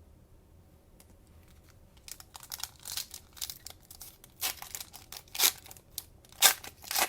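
Plastic cellophane wrapper of a trading-card cello pack crinkled and torn open: a quiet start, then a run of sharp crinkling rips from about two seconds in, the loudest near the end.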